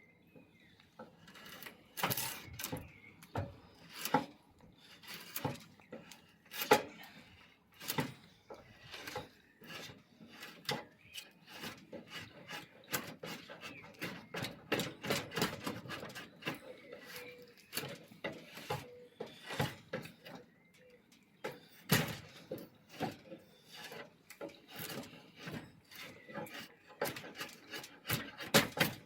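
Uneven, repeated strokes of a hand tool scraping and rasping the wood of an oak board bow's limb as its thickness is tapered. A few sharper knocks stand out among the strokes.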